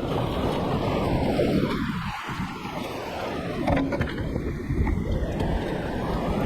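Whitewater river rushing in a steady noisy wash.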